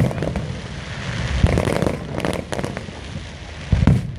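Fireworks display: aerial shells bursting with deep booms and crackle. There are several sharp bangs, the loudest group near the end.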